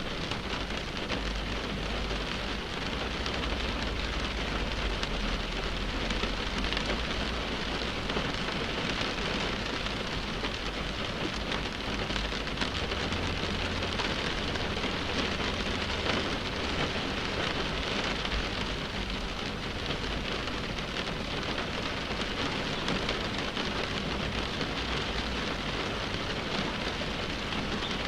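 Steady rain on a car windshield: a dense, even tapping of drops on the glass, with a low rumble underneath that swells in the first few seconds and again about halfway through.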